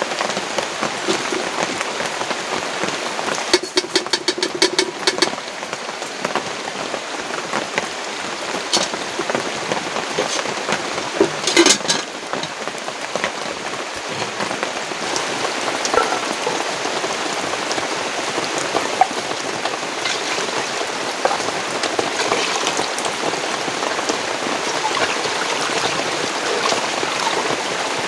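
Heavy rain falling steadily. A quick run of clicks sounds about four seconds in, and a short knock or rattle about twelve seconds in.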